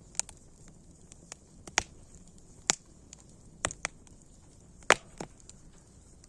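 Wood fire crackling: irregular sharp pops, several loud ones among many small ticks, over a faint steady hiss.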